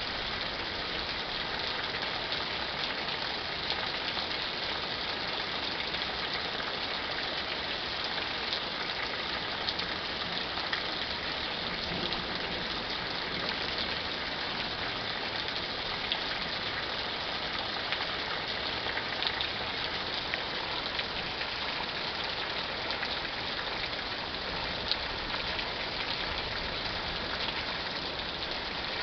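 Thunderstorm rain falling steadily: an even hiss of rain with many small sharp drop taps scattered through it.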